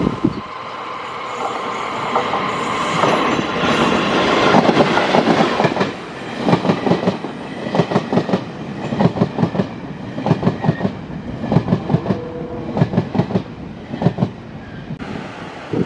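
Taiwan Railway train running through the station close by. A rushing noise builds over the first few seconds, then gives way to a steady rhythmic clickety-clack of wheels over rail joints.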